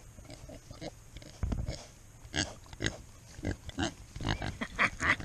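A large pig grunting close by, a series of short grunts and snorts, coming more often in the second half.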